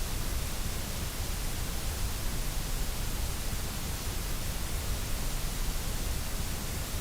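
Steady white noise: an even, unchanging hiss with no pitch, rhythm or breaks.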